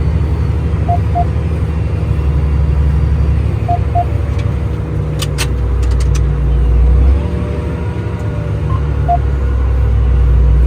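Tractor engine running steadily under load, a low rumble heard from inside the cab that shifts in pitch a couple of times. Short high electronic pips sound in pairs a few times, and a couple of clicks come about halfway through.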